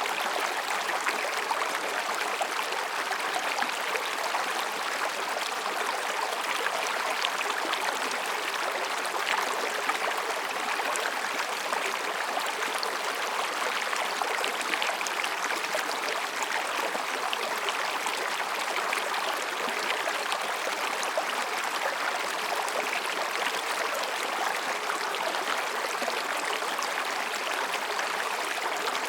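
Mountain stream babbling over and between rocks: a steady, even rush of flowing water with many small splashes and trickles in it.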